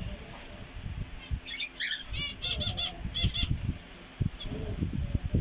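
Pet birds bathing, their wings fluttering and splashing in water in quick flurries, with a short run of high repeated chirps in the middle.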